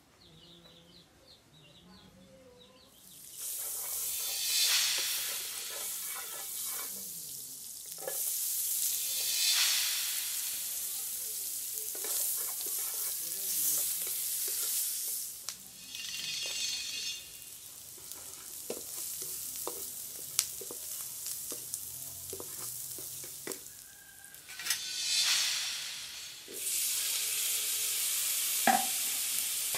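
Diced red onion sizzling in hot oil in a non-stick frying pan, starting about three seconds in. The sizzle swells and fades as a wooden spatula stirs, with frequent clicks and scrapes of the spatula on the pan. Near the end, chopped tomatoes go in and the sizzle becomes a louder, steady hiss.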